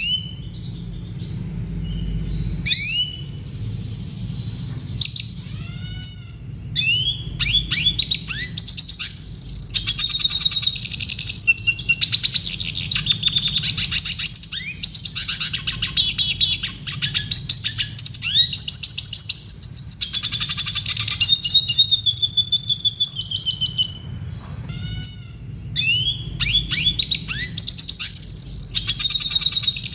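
Red siskin singing a fast twittering song of rapid trills, chirps and sweeping notes in phrases with short gaps, over a steady low hum.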